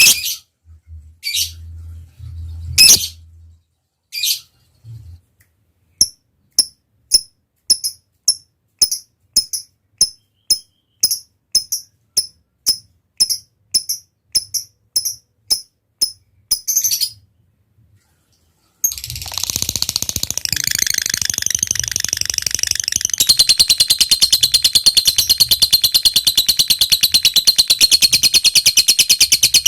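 Lovebird calling: a few sharp chirps over some low thumps, then a steady series of short clicking chirps about two a second (the 'ngetik' call), a short pause, and from about two-thirds of the way in a long, unbroken rapid chattering trill (the 'ngekek panjang').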